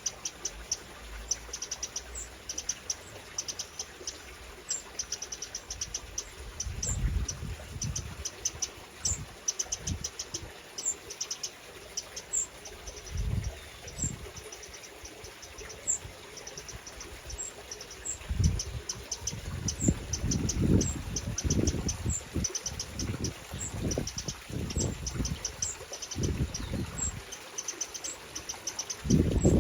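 Eurasian wrens calling: repeated runs of very high, rapid ticking notes, with a single higher chirp every second or so. Low rumbles come and go, heaviest in the second half.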